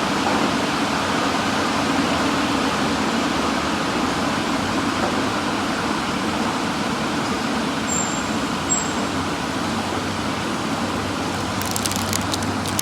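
Steady rushing noise of car wash tunnel equipment with a low hum underneath. Two short, very high beeps come about two-thirds of the way through, and faint rapid clicks start near the end.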